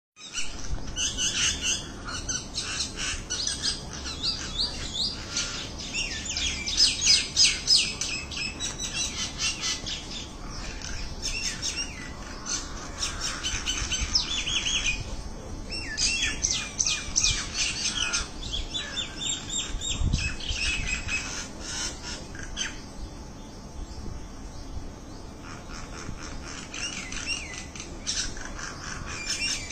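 Many small birds chirping and twittering at once, with quick overlapping calls that come in dense bursts and ease off in between.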